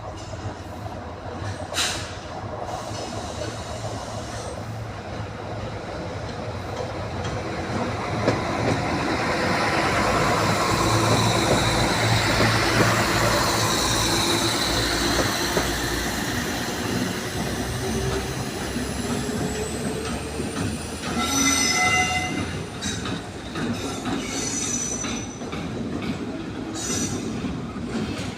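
Three diesel locomotives running coupled without a train, two Class 70s and a Class 66, passing. Their engine noise builds to its loudest about halfway, then fades with a falling tone, and high wheel squeal and clicking from the rails come in during the last third.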